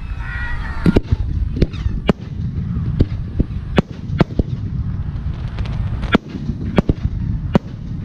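Fireworks aerial shells bursting in quick, irregular succession: about a dozen sharp bangs over a continuous low rumble.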